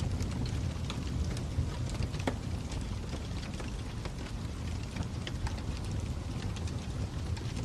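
Fire crackling: a steady low rumble of burning with scattered sharp pops and snaps.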